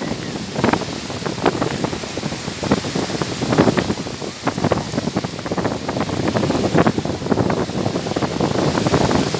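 Black Sea waves washing on the beach, mixed with wind buffeting the microphone in irregular gusts.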